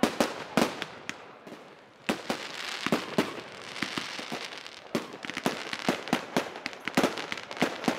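Fireworks display: aerial shells bursting with a string of sharp bangs, several to the second at times, over a dense crackling from about two seconds in.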